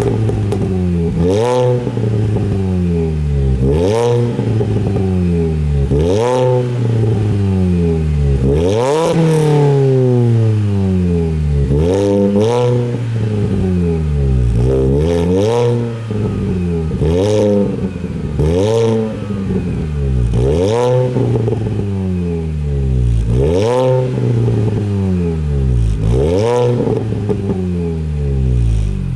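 2003 Mini Cooper S R53's supercharged 1.6-litre four-cylinder being blipped repeatedly through a Milltek exhaust with a Janspeed manifold and a 200-cell cat. Each rev rises sharply and falls away slowly, about one every two seconds.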